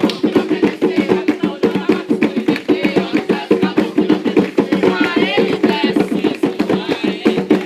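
Hand drums, atabaques of an Umbanda session, beating a fast, steady rhythm for a ponto. A brief wavering high tone sounds over the drums about five seconds in.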